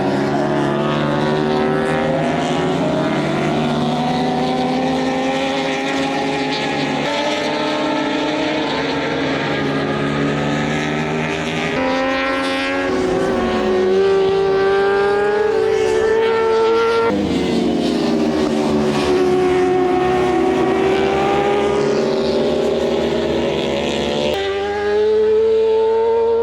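World Superbike race motorcycle engines running at high revs, several at once, their pitch rising and falling as they accelerate and change gear. The sound shifts abruptly three times.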